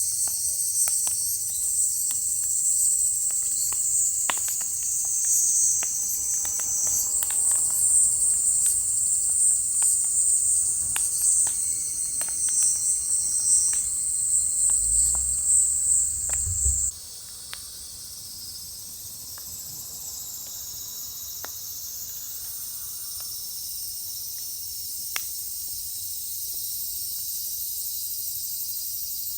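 Firewood crackling in an open fire pit: irregular sharp pops and snaps over a steady high-pitched background hiss. About two-thirds of the way in the level drops suddenly, and the crackles thin out to a few isolated pops over a quieter hiss.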